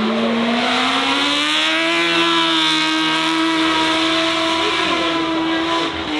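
Racing car engine under hard acceleration: its pitch climbs over the first couple of seconds, then holds steady at high revs, dipping slightly near the end.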